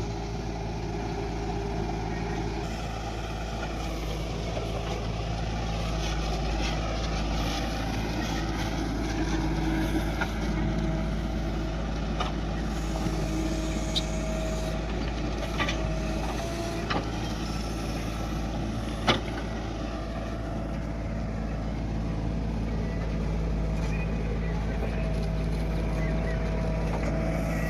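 Heavy diesel engines of a JCB backhoe loader and a tractor running steadily while loading soil, with a few sharp knocks scattered through, the loudest about 19 seconds in.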